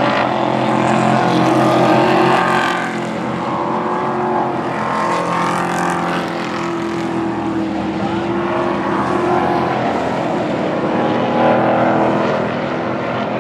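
Pro Truck race trucks' engines running at speed around the track, several at once, the sound swelling as packs pass.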